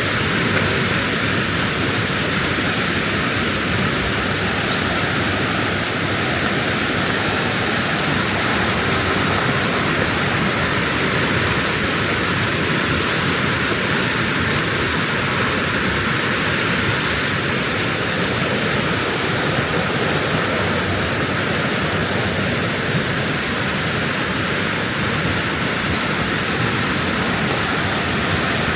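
Steady, loud rush of white water from mountain falls or a glacial torrent. A few faint high ticks come through about nine to eleven seconds in.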